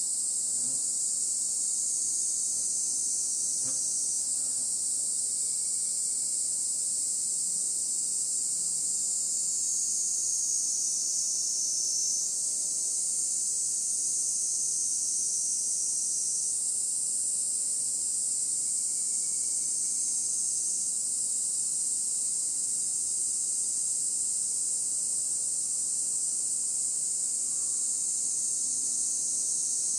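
A dense chorus of insects: a steady, high-pitched chirring that never breaks, with a few fainter overlapping tones coming and going within it.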